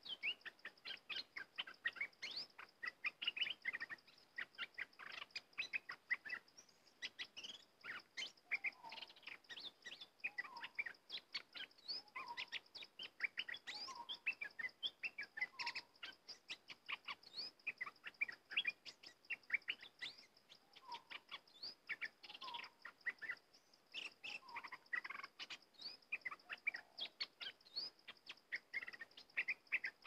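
Bulbuls chirping and calling in quick, busy phrases, with a lower call repeating about every two seconds through the middle, over a steady high-pitched whine.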